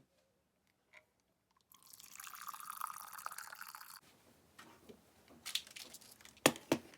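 Liquid pouring for about two seconds, stopping abruptly, then a few sharp clinks or knocks, the loudest two in quick succession near the end.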